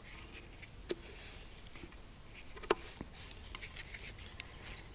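Quiet knife work slicing an apple thin: faint small scrapes and ticks, with a sharper click about a second in and another near three seconds.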